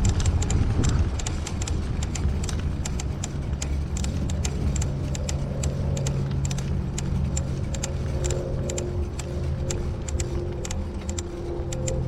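A motor engine running at a steady pitch over a low rumble, with many quick clicks throughout.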